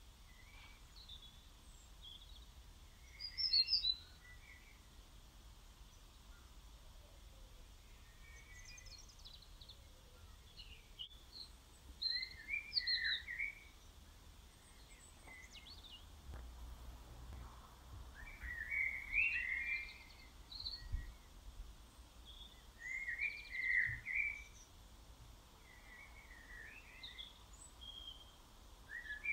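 Outdoor birdsong: birds chirping and calling in short, scattered phrases that come in bursts every few seconds, over a quiet background.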